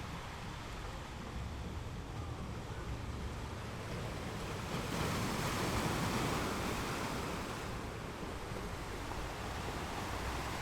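Ocean waves breaking on rocks: a steady wash of surf that swells into a louder wave from about halfway through, then ebbs, over a low rumble.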